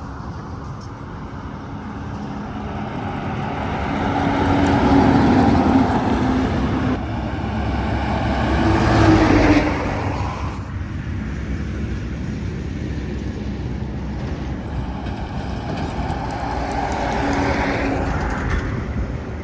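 Heavy trucks driving past on a highway one after another: the sound of engines and tyres swells and fades with each pass, loudest about five seconds in and again around nine seconds, with a smaller pass near the end.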